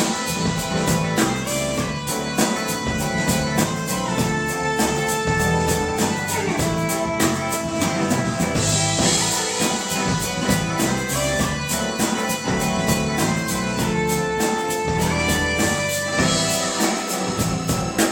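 Live band playing an instrumental passage of a pop song with a steady drum-kit beat, guitar and held melody notes, between sung verses.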